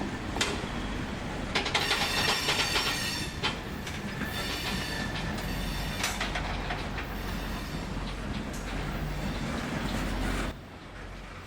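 Freight train cars rolling past, wheels clicking and rattling on the rails with a burst of high metallic wheel squeal a couple of seconds in. The sound drops away abruptly near the end.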